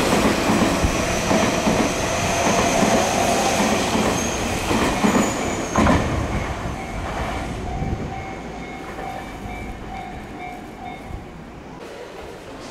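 Tobu 60000 series electric train passing through the station at speed without stopping: loud wheel-and-rail running noise with a high steady whine. About six seconds in the sound drops to a quieter train running with a steady lower whine, which fades away.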